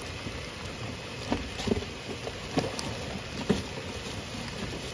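Hard, steady rain falling, with a few light knocks and taps scattered through it.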